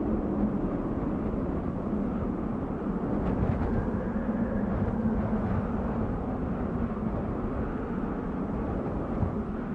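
Desert wind blowing steadily, heard mostly as a low, even rumble.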